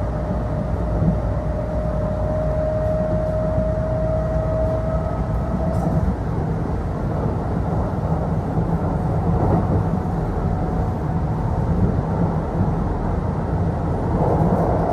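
Kintetsu Osaka Line local electric train running between stations, heard from inside the passenger car: a steady low rumble of wheels on the track, with a thin whine that rises slightly in pitch over the first six seconds and then fades.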